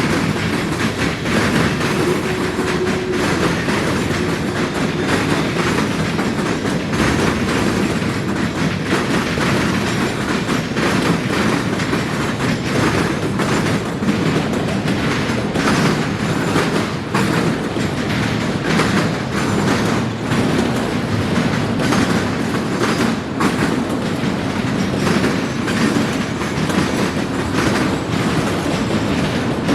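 Freight cars of a long train rolling across a railroad diamond crossing, their wheels clattering over the crossing's rail gaps in a steady, rapid run of clicks over a continuous rumble.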